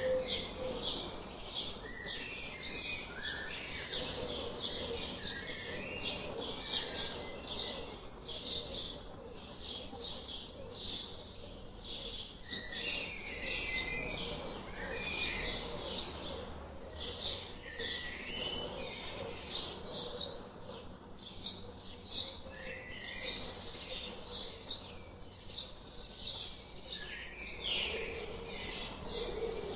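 Small birds chirping continuously, with rapid repeated high chirps, about three a second, and scattered lower calls mixed in.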